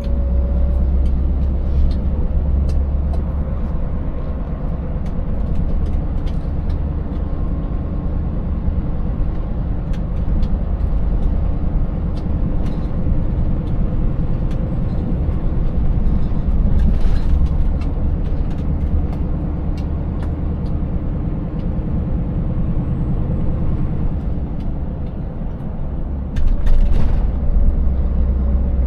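Scania 590S's 16-litre V8 diesel running steadily as the truck drives, with a low rumble and scattered knocks and rattles from the cab and body. A short hiss of air comes about midway, and another just before the end.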